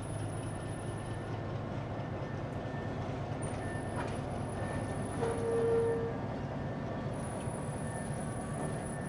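A locomotive moving a caboose along the near track: a steady low engine hum with rolling wheel noise, and a brief single-pitch squeal a little past halfway.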